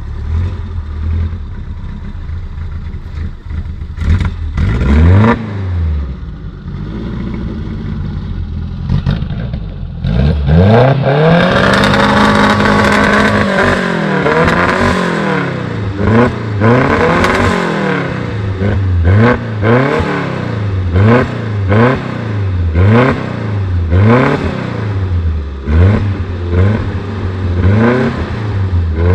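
Suzuki Jimny engine running at a low steady note, with a short rev about five seconds in. About ten seconds in it is revved high and held for a few seconds, then revved up and let fall again and again, about once a second, as the 4x4 crawls along a rutted dirt track.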